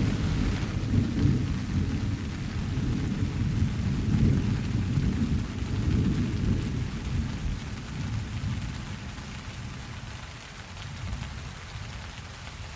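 Steady rain hiss with a long, low rolling rumble of thunder that swells over the first several seconds and fades away after about ten seconds.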